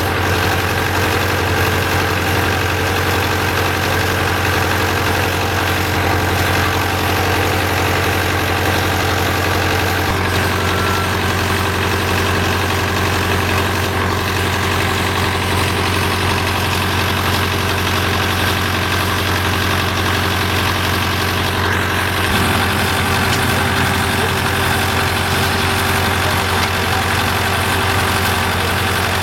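An engine running steadily at a constant level, its tones shifting slightly about ten seconds in and again about twenty-two seconds in.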